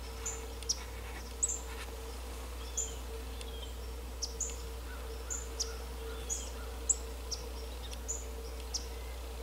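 Small birds giving short, high chip and chirp calls at irregular intervals, about one or two a second, over a faint steady hum.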